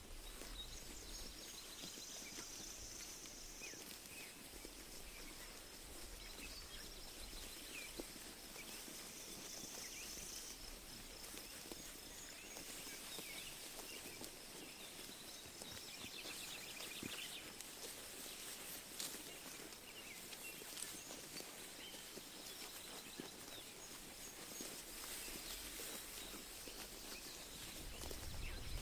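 Sheep grazing: grass tearing and chewing heard as many small soft clicks. Faint bird chirps and a short trill sound over an open pasture.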